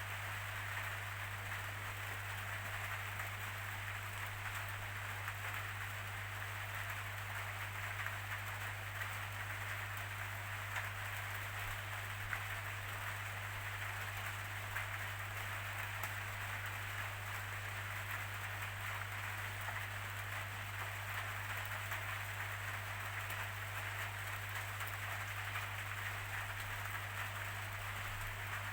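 Steady rainfall, an even patter of many drops without letup, over a constant low hum.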